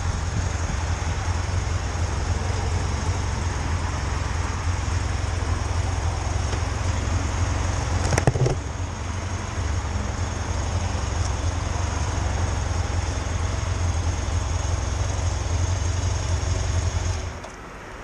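Motorcycle engine running steadily under wind and road noise, with a brief knock about eight seconds in; the engine sound drops off sharply near the end.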